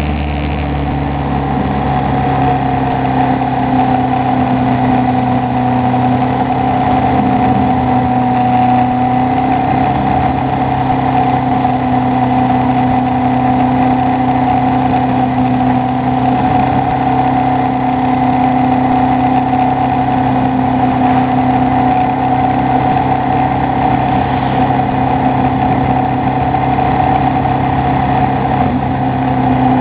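Moto Guzzi Bellagio's air-cooled V-twin engine running at steady revs while riding, heard from the bike itself, with light wind and road noise. Its note shifts once just at the start, then holds nearly even.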